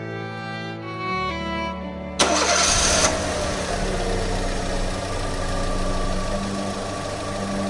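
Car engine sound effect: a loud burst as the engine starts, about two seconds in, then the engine running steadily at idle. Violin music plays before the start and continues faintly underneath.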